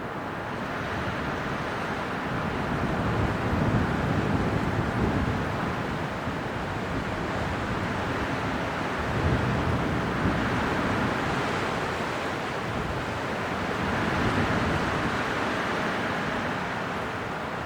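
Strong winter wind blowing in gusts, a steady rushing that swells and eases several times.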